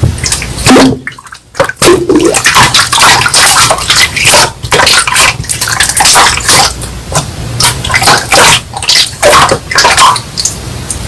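Slime being squished and pressed by hand, a dense run of wet clicks and pops with a brief pause about a second in.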